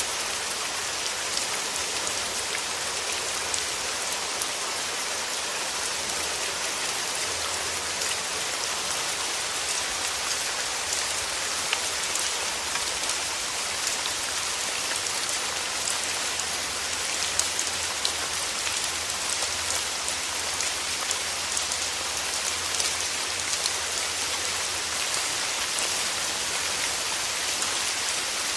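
Steady rain falling on a surface: a dense, even hiss with many small drop ticks and no thunder.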